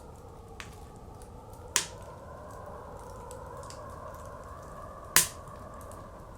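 Wood fire crackling with small ticks and two loud, sharp pops, about two and five seconds in, over the steady wavering howl of blizzard wind.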